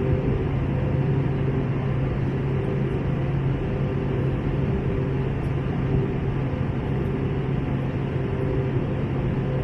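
Steady in-flight cabin noise of an Airbus A321 airliner: engine and airflow rush with a constant low hum, unchanging throughout.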